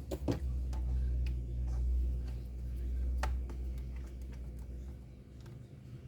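Screws being tightened on a laptop: scattered small clicks and ticks from the screwdriver and screws, over a low hum that stops about five seconds in.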